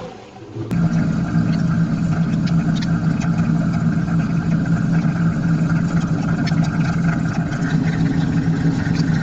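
Riding lawn mower engine running at a steady speed, a constant hum that cuts in abruptly about a second in.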